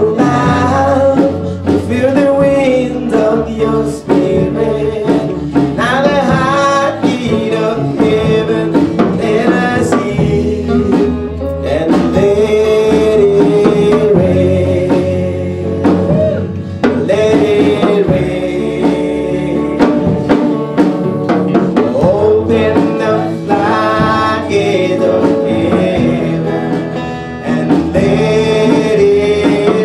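Singing over instrumental accompaniment: a gospel worship song performed as a cover.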